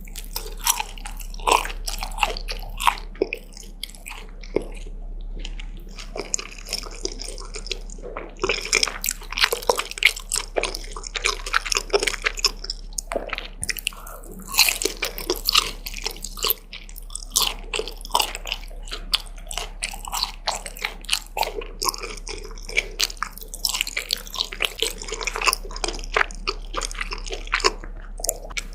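Close-miked eating of fire chicken noodles and fried dumplings: continuous biting and chewing with many sharp, crisp crunches.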